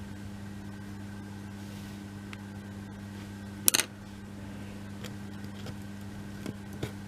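Steady low background hum, with a single sharp click about halfway through and a couple of faint taps near the end: laser-cut wooden kit pieces being handled and slotted together.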